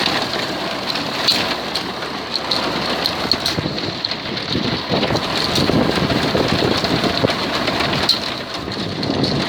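Vintage tractor engine running steadily while drawing a Massey binder, with the binder's mechanical clatter of many small clicks over the engine.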